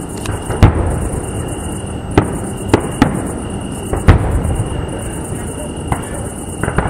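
Fireworks shells bursting overhead: a string of about seven sharp bangs at irregular intervals, the loudest about half a second in and again about four seconds in, over a steady background rumble.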